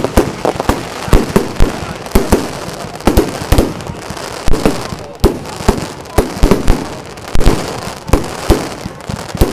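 Fireworks display going off in a rapid, irregular barrage of loud bangs, several a second, with no let-up.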